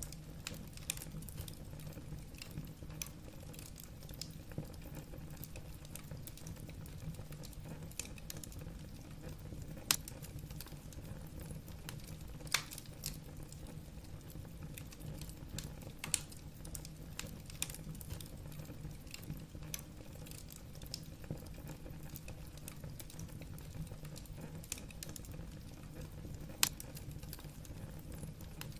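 Wood fire crackling in a fireplace: burning logs giving irregular sharp snaps and pops over a low steady rumble of the flames, with a few louder pops scattered through.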